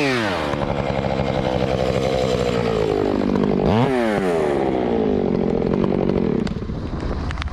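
Gas chainsaw running under load as it cuts into a large tulip poplar trunk. It bogs down and picks back up about four seconds in, then eases off near the end.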